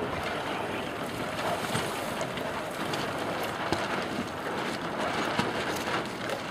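Strong wind blowing on the microphone: a steady rushing noise with scattered small ticks and knocks.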